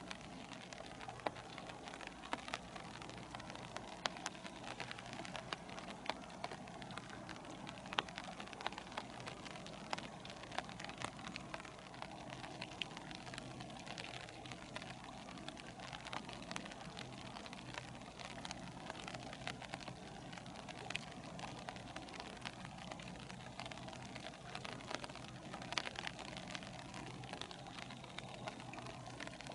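Rain falling, with many small sharp drop ticks, over a steady low hum.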